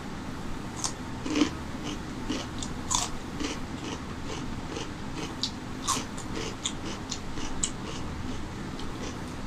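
Crisp bites and wet, crunchy chewing of raw cucumber close to the microphone: irregular sharp crunches starting about a second in and going on through, over a steady low hum.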